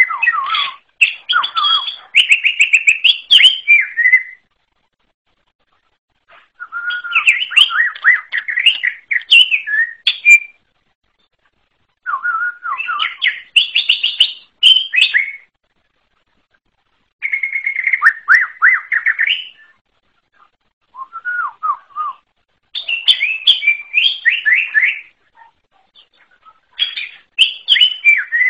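Cucak ijo (green leafbird) singing a varied, loud song of rapid whistles and trills. About seven phrases of one to four seconds each are broken by pauses of a second or two.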